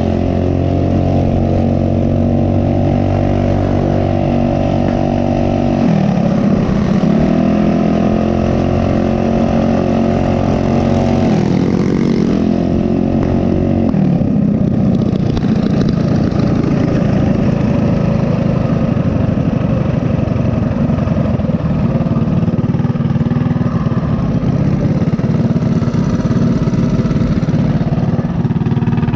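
Mini bike's small single-cylinder four-stroke engine running under way. Its pitch drops and climbs back twice, about six and twelve seconds in, as the throttle is eased and opened again. After that it settles into a rougher, steadier drone.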